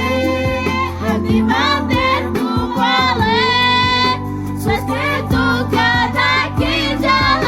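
Romani love song: a voice singing a wavering, ornamented melody over backing music with a steady bass and a regular beat.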